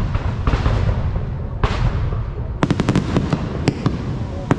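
Fireworks display: a constant low rumble of booms, with a rapid cluster of sharp cracks about two and a half seconds in and single loud cracks near the end.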